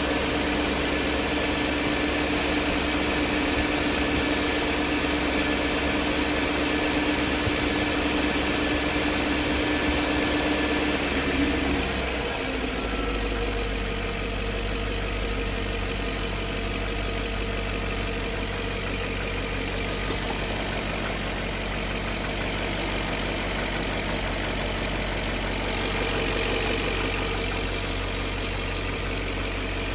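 BMW M62 4.4-litre V8 engine idling with a knock whose cause the owner cannot pin down. About twelve seconds in, the running note shifts lower and gets slightly quieter.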